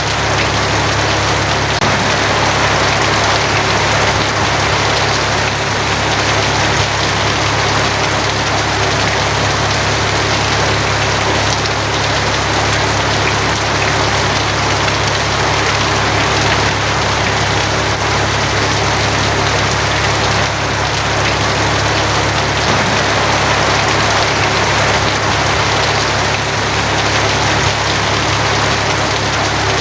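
Steady heavy rain drumming on a tin roof, an even, unbroken hiss with a constant low hum beneath it and no thunderclaps.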